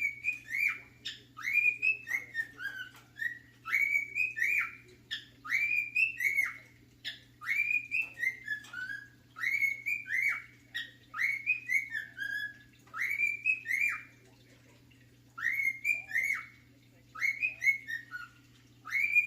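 Pet cockatiel whistling its favourite song: short arched whistled notes, phrase after phrase, with a pause about two-thirds of the way through. A steady low hum runs underneath.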